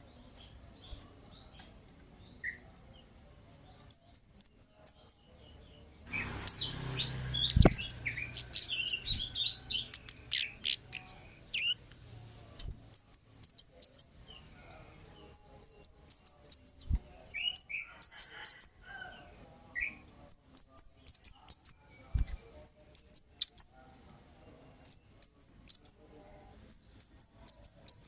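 Songbird known in Indonesia as the cit kemade calling: clusters of about five quick, high chirps, repeated every couple of seconds. A busier stretch of mixed chirps comes about six seconds in, and a few low knocks are scattered through.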